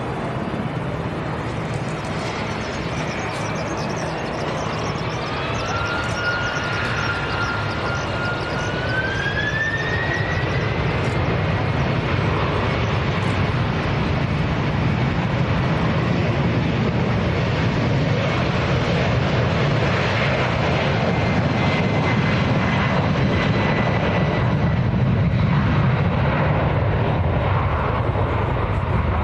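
Military aircraft engines running, a steady rush with a whine that climbs in pitch about five seconds in and then holds, growing slowly louder.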